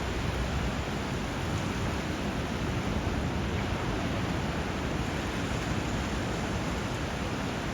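Steady rushing of water where a river meets the sea: river flow and surf blended into an even, unbroken wash of noise.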